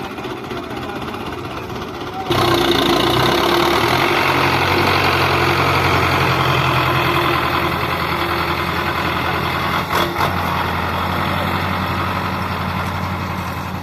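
Belarus tractor's diesel engine running steadily, suddenly much louder about two seconds in and holding there at high revs, with a brief knock near the end.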